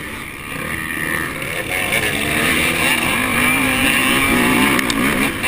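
Honda 450 four-stroke motocross bike engine under race throttle, its pitch rising and falling with throttle and gear changes, over wind and track noise. It grows louder from about a second in and drops off for a moment near the end.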